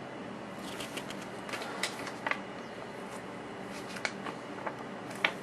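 Paper leaflets being handled and leafed through: light rustling with scattered small clicks and taps.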